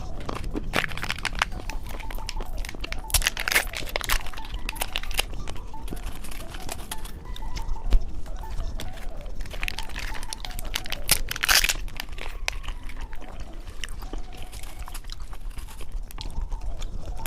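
Close-miked crinkling and tearing of a cheese-stick snack's plastic wrapper and crunchy chewing, in irregular clusters of crackles that are loudest about three seconds in and again near twelve seconds.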